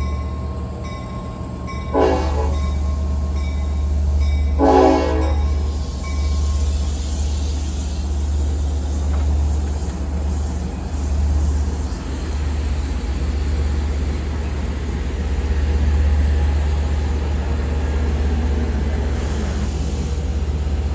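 Train horn sounding two blasts, a short one about two seconds in and a slightly longer one a few seconds later, over the heavy, steady low rumble of the train running through.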